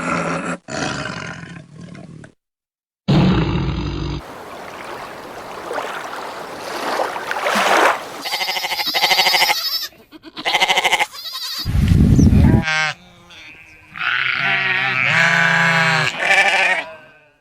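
Animal calls from a string of short clips cut one after another: a call at the start, a short silence, then a run of calls including several long pitched cries in the middle and near the end.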